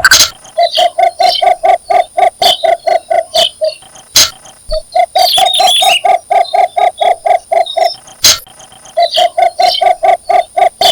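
Male cinnamon bittern giving its mating call: three long series of low, hollow, evenly repeated notes, about four or five a second. A few sharp clicks fall between the series.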